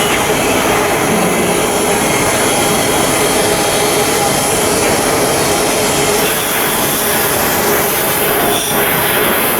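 Loud, steady industrial machinery noise with a faint underlying hum.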